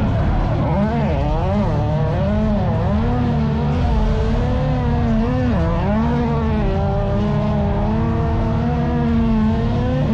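A car engine revving hard as the car is drifted, its pitch swinging up and down in quick repeated surges, then holding steadier near the end.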